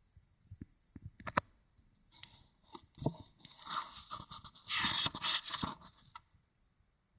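Crinkling and rustling, uneven and loudest about five seconds in, with a couple of sharp clicks just over a second in.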